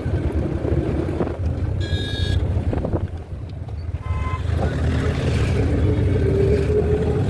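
Steady low rumble of road traffic, with a short vehicle horn toot about two seconds in and another, lower-pitched toot about four seconds in.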